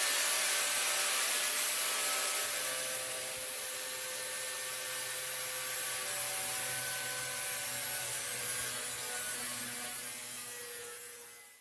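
An abrasive power tool running against sheet metal, a continuous harsh rasping with a few steady whining tones, while a steel patch panel is worked into a car fender.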